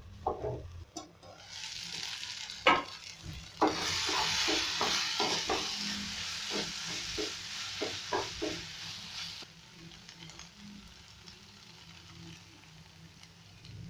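Beef tripe and tomatoes dry-frying in a non-stick pan: a couple of sharp knocks as the metal lid is handled, then loud sizzling with a wooden spatula stirring and knocking against the pan. The sizzling drops away sharply about two-thirds of the way in, leaving only a faint low simmer.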